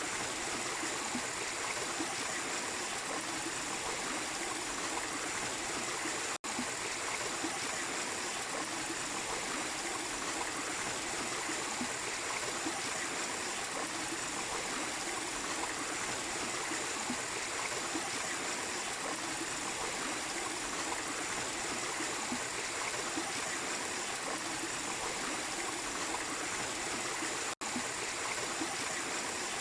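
Small waterfall splashing and rushing steadily into a stream. The sound cuts out for an instant twice, about six seconds in and near the end.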